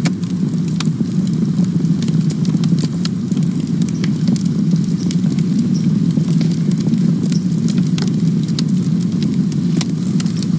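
Wood campfire burning: a steady low rush of flames under frequent, irregular sharp crackles and pops from the burning wood.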